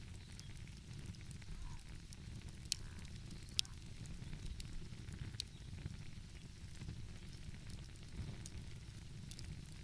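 Wood fire crackling, with scattered small snaps and two sharper pops about three and three and a half seconds in, over a steady low rumble.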